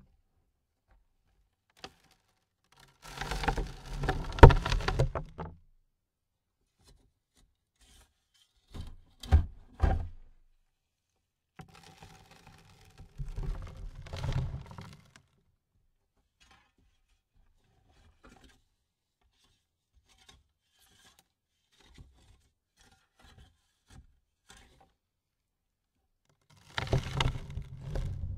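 A run of separate impact sound effects: knocks and scrapes in short clusters of a second or two, among them two sharp hits close together about nine seconds in, with silent gaps between the effects.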